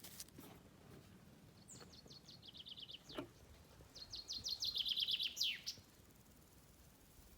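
A songbird singing twice: a rapid trill of high notes falling in pitch, the second song longer and louder and ending in a quick downward sweep.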